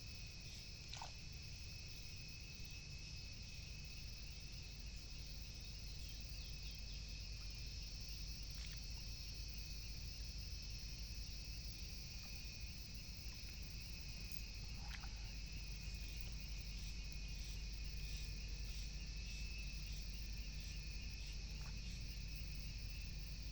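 Steady high-pitched chorus of calling animals, with a short downward-sweeping call about every six seconds, over a low steady rumble.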